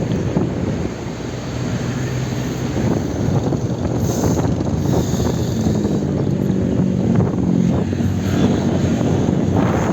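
Wind rushing over the microphone during a bicycle ride, mixed with the steady hum of motor-vehicle engines in nearby traffic, which grows louder in the second half.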